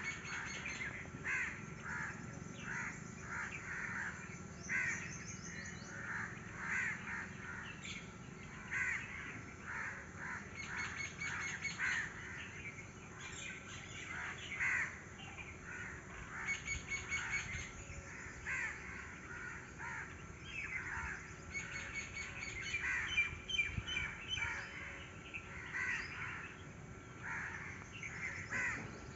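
Several birds calling over one another, with many short, harsh calls repeating throughout.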